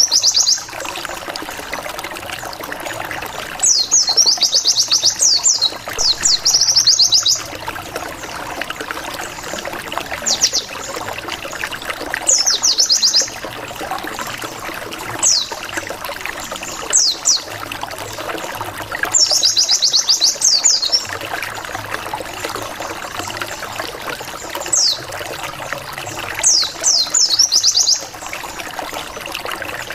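White-eye (pleci) song used as a lure: repeated bursts of rapid, sharp, falling high chirps, about nine bursts of one to two seconds each, over a steady rushing hiss.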